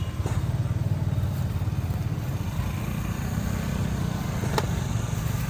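A motor vehicle, likely a motorbike, running close by: a steady low rumble, with one sharp click about four and a half seconds in.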